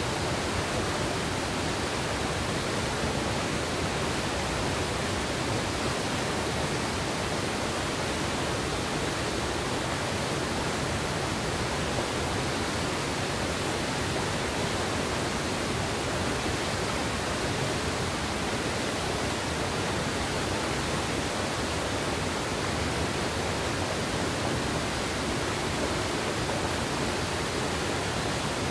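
Gorge river water running steadily, a continuous even rushing sound with no breaks or distinct events.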